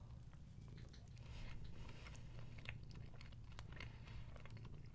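Faint chewing of a mouthful of soft chocolate-coated Swiss cake roll, with scattered small clicks.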